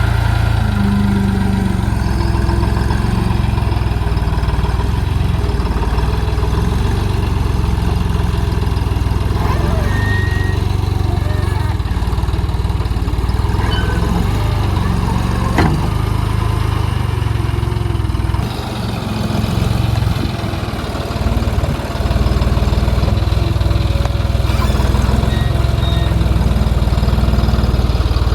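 Diesel tractor engine running steadily, with a single sharp knock about halfway through and a drop in level for a few seconds about two-thirds of the way in.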